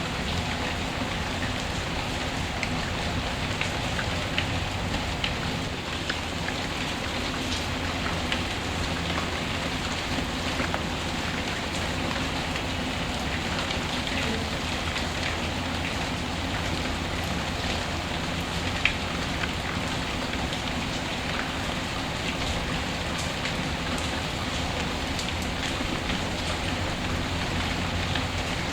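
Steady rain ambience: an even hiss of rainfall with scattered sharp ticks of individual drops.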